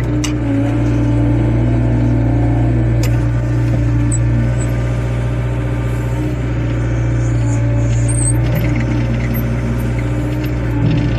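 Excavator's diesel engine running steadily under working load, with a wavering tone above it that shifts in pitch as the hydraulics work.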